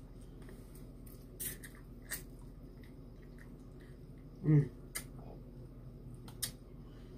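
A person chewing food, with a few faint mouth clicks and smacks, and a short voiced murmur from the mouth about four and a half seconds in.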